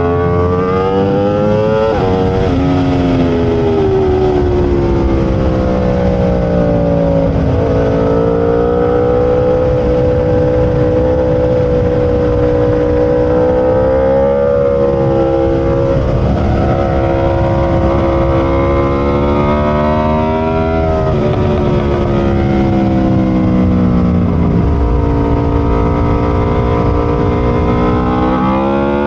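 Aprilia RSV4 V4 sportbike engine running hard under racing load, its pitch climbing and then dropping sharply at each gear change several times over, with a steady rushing noise underneath.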